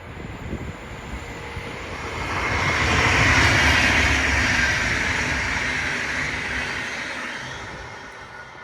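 A train passing by: a rushing rumble that grows louder, peaks a few seconds in, then fades away as it moves off.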